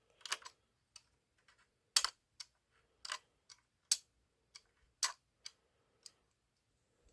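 Irregular sharp clicks and scratches of a box cutter blade trimming excess sticker off a hard plastic toy part, about a dozen, the loudest about two, four and five seconds in.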